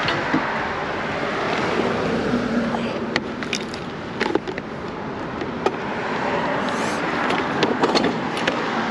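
Street traffic noise as a steady wash that swells twice, with scattered sharp clicks and small knocks of something being handled.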